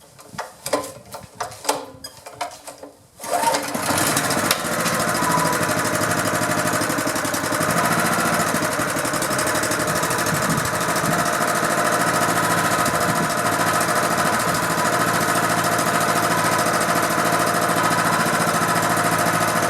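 A few clicks and knocks, then about three seconds in a Honda GX200 single-cylinder engine starts on the first pull of its recoil starter and runs steadily. It is now fed by a good carburetor, swapped in because the original's fuel shutoff gasket was plugged by old fuel.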